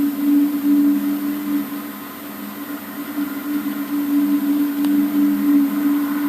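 Loud, steady droning hum in two low tones close together, swelling and easing a little in level: the unexplained 'strange sound' whose source the recorder does not know.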